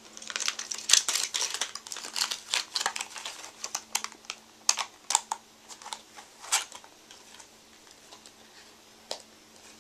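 Quick light clicks and taps of small hard objects being handled, many of them close together for about the first six seconds, then only a few scattered ones.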